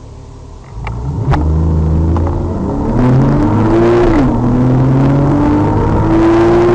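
Porsche 911 Carrera S flat-six engine under hard acceleration, getting loud about a second in, its pitch rising through a gear, dropping sharply at an upshift about four seconds in, then rising again.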